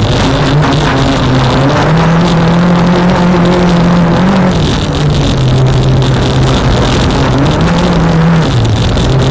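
Renault Clio 1.8 16v's four-cylinder engine at racing revs, heard from inside the stripped, roll-caged cabin while driving on dirt. Its pitch climbs about a second in and holds, drops a little before halfway, then rises and falls again near the end.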